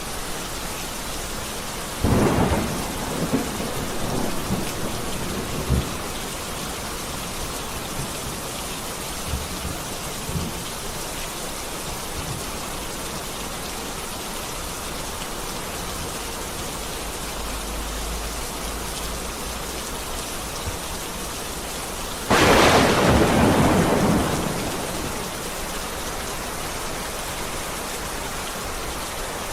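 Heavy rain falling steadily through a thunderstorm. A sharp thunderclap about two seconds in rumbles on for a few seconds, and a second, louder clap comes about three-quarters of the way through and rolls away.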